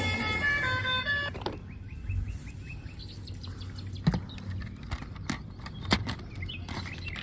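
Electronic toy sound effects: a short stepped beeping tune, then a few rising chirps, followed by several sharp plastic clicks and knocks, the loudest about four seconds in.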